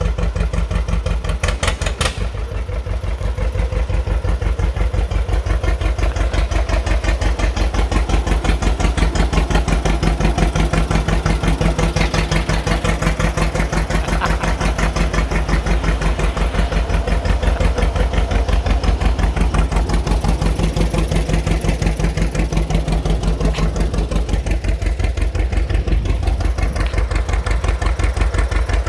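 John Deere two-cylinder tractor engine running with a steady, even exhaust beat. There is a sharp click about two seconds in.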